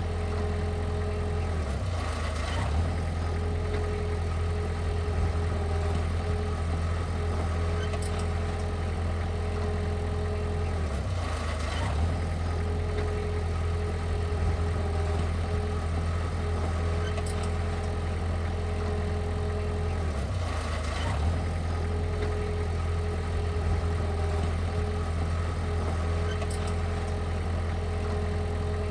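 Heavy machinery's engine running steadily at idle with a constant low hum and a brief dip about every nine seconds.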